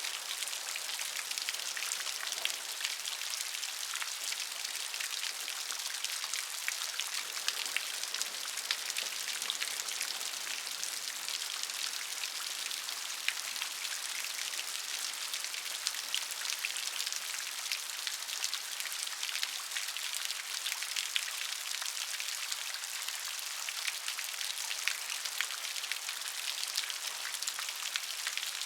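Steady rain, a dense patter of many small drops over an even hiss.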